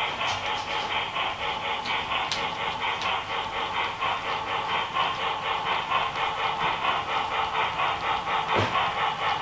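HO-scale model train locomotive's sound system running with a steady, rhythmic engine beat of about six pulses a second, thin with little bass, with a few faint clicks.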